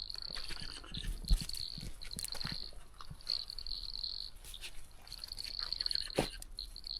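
Crickets trilling in high, steady bouts of a second or so, broken by short pauses. A sharp low thump about a second in and a few light clicks.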